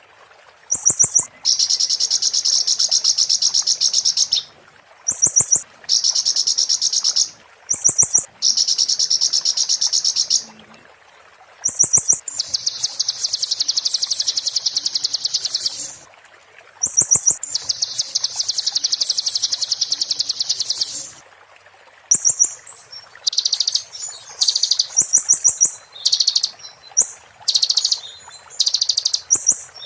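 A konin bird singing its shrill "muntah beling" song: high, very rapid rattling trills in phrases of one to four seconds, each opened by a short sharp note, with short gaps between. In the last third the song breaks into shorter, choppier phrases.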